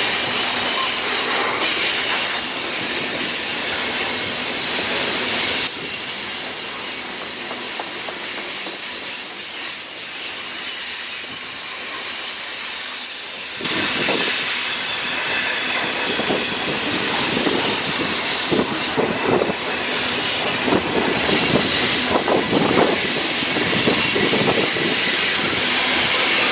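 Freight cars of a CSX mixed manifest train rolling past, their steel wheels squealing steadily on the rail. About halfway through the sound gets louder, with a rhythmic clatter of wheels over the rail joints.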